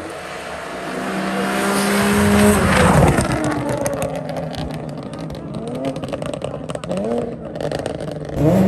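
A race car's engine passes close by at full throttle, growing louder to a peak about three seconds in, where its note drops sharply as it goes by. After that, the engine is heard revving in short rising swells.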